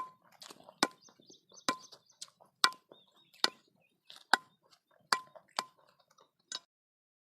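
Sharp knocks, about ten of them, several with a brief ringing tone, as the pulp is dug out of hard wood apple shells; they stop near the end.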